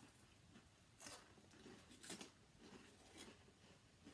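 Faint crunching of potato chips being chewed, a couple of soft crunches about a second and two seconds in, with near silence otherwise.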